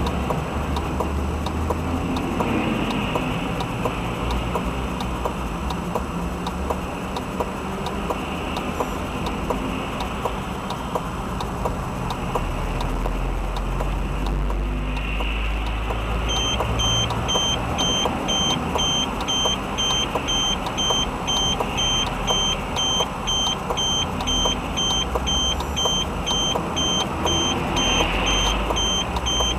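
Car driving along a road, with steady engine and road rumble. About halfway through, a high electronic beep starts and repeats rapidly and evenly until the end.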